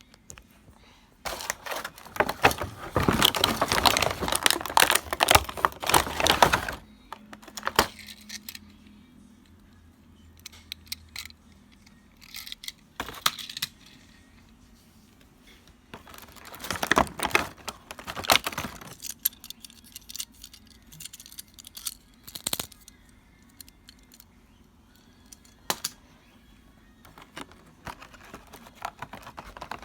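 Small hard plastic toy pieces clattering and clicking as they are handled, in two longer bouts with scattered single clicks between.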